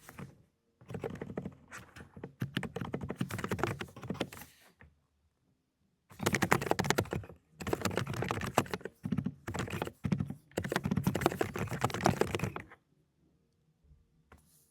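Fast typing on an Aula 'Dokgeomi' mechanical keyboard with silent Cotton Candy switches: two long runs of rapid keystrokes, with a pause of about a second between them and a stop near the end.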